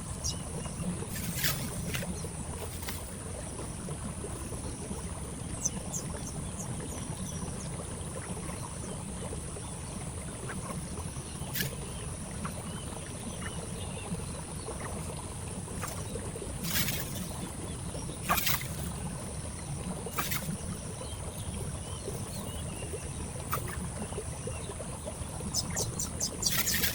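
Steady outdoor background noise: a low rumble and a thin high-pitched hiss, broken every few seconds by a short sharp click or chirp, with a brief flurry of them near the end.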